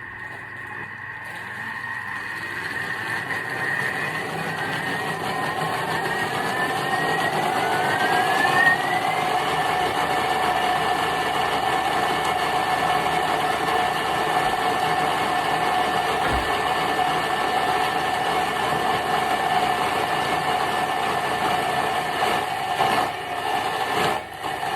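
Thermomix motor blending the cooked chicken mixture at speed 7, quite loud. It whines upward in pitch as it spins up over the first several seconds, then runs steadily.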